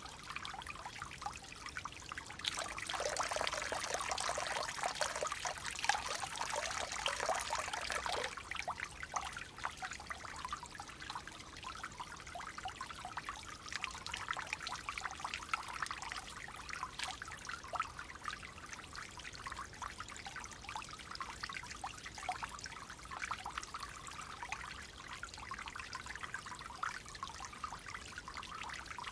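Clear water trickling and babbling in a stream, a steady splashing wash. It swells louder and fuller from about two to eight seconds in, then settles back to a gentler trickle.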